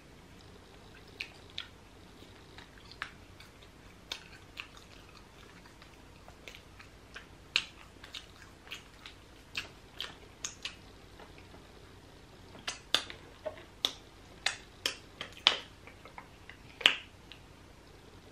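Close-miked mouth sounds of someone eating grilled fish: irregular wet smacks and clicks of chewing and lip-smacking, coming more often and louder in the second half.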